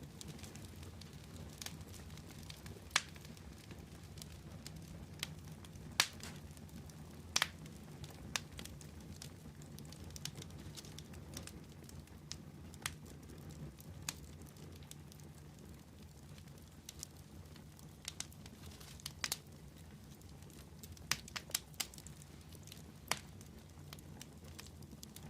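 Wood fire crackling: irregular sharp pops and snaps over a low steady rumble of the flames, with little clusters of quick pops near the end.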